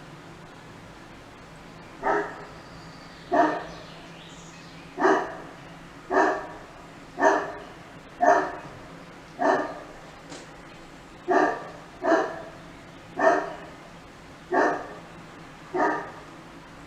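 A dog barking: about a dozen single barks, roughly one a second with a few longer gaps, starting about two seconds in.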